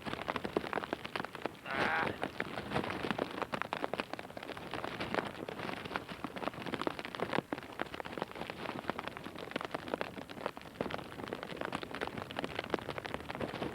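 Heavy rain falling steadily, a dense stream of drops hitting the ground and nearby surfaces.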